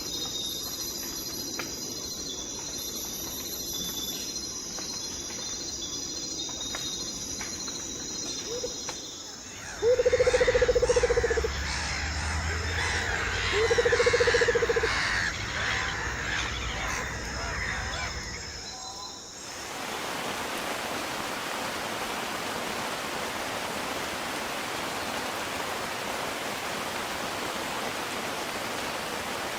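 A series of nature recordings. It opens with steady high insect trilling. About ten seconds in comes a louder passage of two long, low animal calls over busy chirping, and two-thirds of the way in it cuts abruptly to a steady, even hiss of outdoor ambience.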